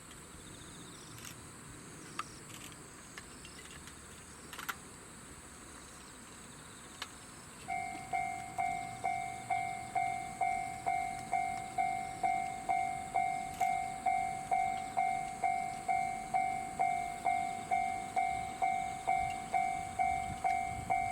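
Japanese railway level-crossing warning bell starting to ring about eight seconds in, an even ding about twice a second, signalling that a train is approaching. Before it there is only faint outdoor ambience with a steady high hiss.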